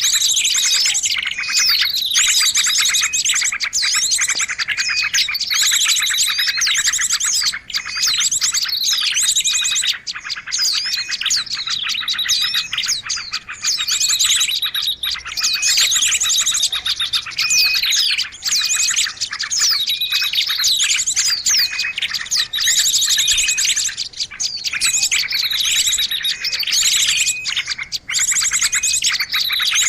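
Dense, continuous chattering of small songbirds in a bird-lure recording, many calls overlapping at once: rapid high trills and repeated falling chirps, with no pauses.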